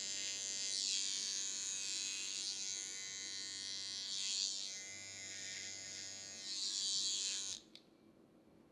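Electric hair clippers running steadily, the buzz brightening in swells as the blades pass through hair, then switched off abruptly near the end.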